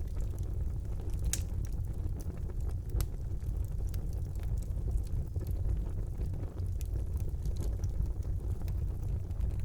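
Fire burning in a fireplace: a steady low rumble of the flames, with occasional sharp crackles and pops, the clearest about a second and a half and three seconds in.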